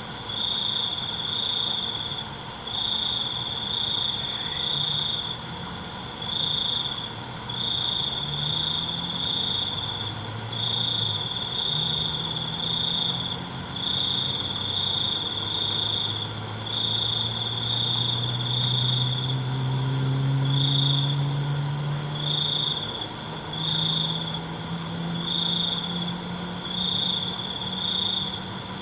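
Night chorus of crickets: a loud high-pitched chirping in repeated short trains, with a faster trill above it and a steady high ringing from other insects. Underneath, a low hum rises slowly in pitch from about eight seconds in to near the end.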